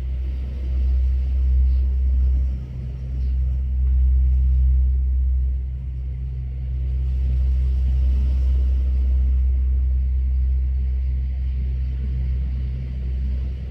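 Steady low rumble that swells and eases every few seconds.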